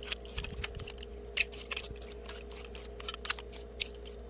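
Light clicks and scrapes of a cue shaft and collet being handled and fitted into a Willard's tip trimmer, over a steady hum.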